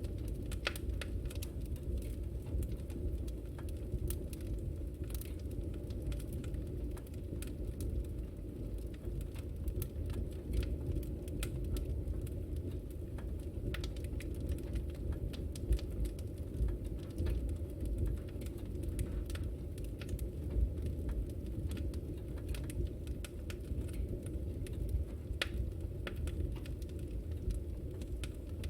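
Wood fire burning in a fireplace, with a steady low rumble and irregular crackles and pops throughout.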